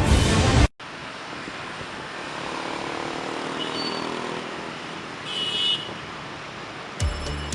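Street traffic ambience: a steady hum of passing cars and motorbikes, with a short horn toot about five and a half seconds in. Music stops under a second in and starts again near the end.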